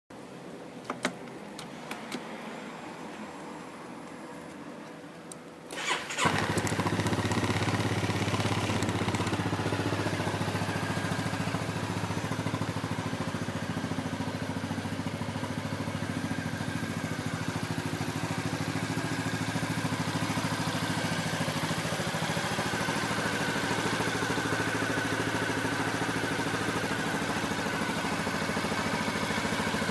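A few clicks, then about six seconds in a Honda Forza Z scooter's single-cylinder engine with an SP Tadao aftermarket muffler starts and settles into a steady idle.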